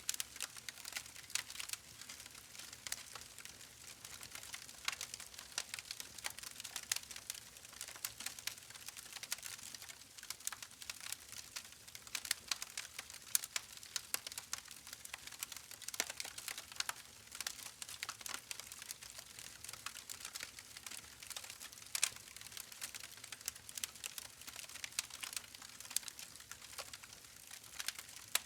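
Campfire crackling: a dense, irregular run of sharp pops and snaps from burning wood, with a few louder snaps standing out.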